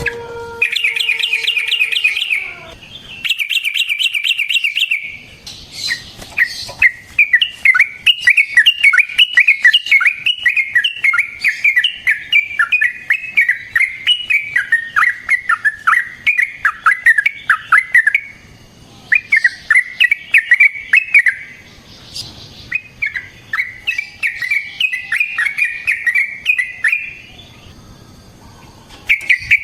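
Yellow-vented bulbul (trucukan) singing long runs of rapid chattering notes, in several bouts separated by short pauses, with one long unbroken run near the middle.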